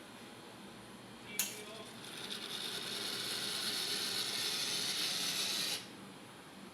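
Sanremo Zoe espresso machine: a sharp click, then a steady hiss that lasts about four seconds and cuts off sharply.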